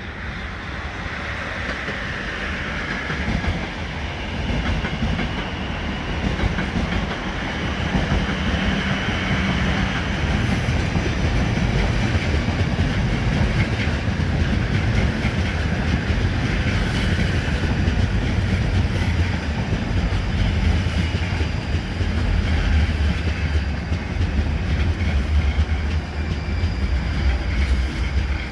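Passenger train running along the track, its wheels clattering over the rail joints; it grows louder over the first dozen seconds and then stays loud.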